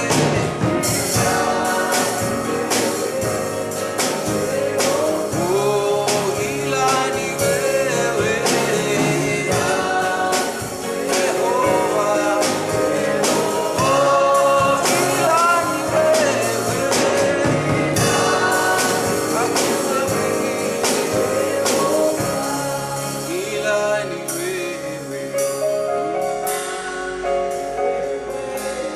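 Live gospel worship music: voices singing a melody over a band with a steady drum beat.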